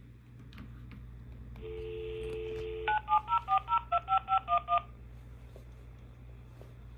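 Telephone dial tone, a steady two-note hum, followed by a quick run of about ten touch-tone (DTMF) keypad beeps as a phone number is dialled.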